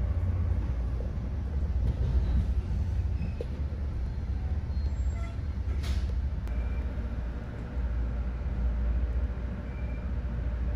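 Steady low rumble of an MBTA commuter rail coach rolling slowly along the track, heard from inside the car, with a single sharp click about six seconds in.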